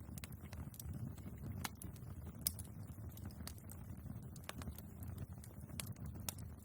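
Wood fire burning in a fireplace: a low steady rumble of flame with irregular crackles and pops from the logs, one sharper pop about two and a half seconds in.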